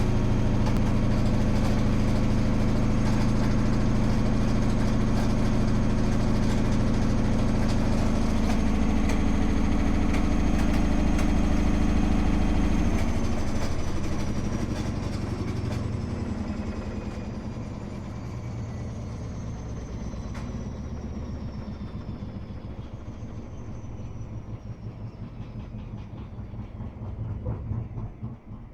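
Washing machine running a fast spin with a loud, steady hum, the odd noise its owner is worried about. About thirteen seconds in it starts to spin down: the level drops, its whine falls steadily in pitch, and a pulsing beat sets in near the end as the drum slows.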